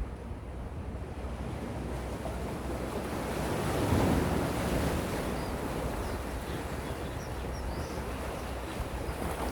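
Gentle sea waves washing in, one wave swelling to a peak about four seconds in and easing off, over a steady low rumble of wind on the microphone. A few faint high chirps sound now and then.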